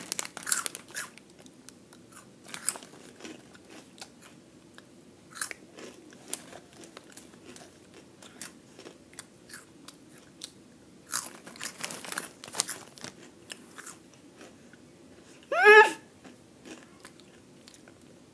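Flamin' Hot Cheetos being crunched and chewed, with scattered clusters of sharp crunches. A short high-pitched vocal squeal from the eater near the end is the loudest sound.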